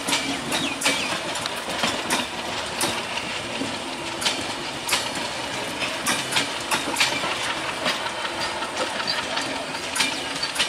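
Passenger coaches of an intercity express train rolling past, their wheels clacking over the rail joints in a string of sharp, irregular clicks over a steady rumble of running gear.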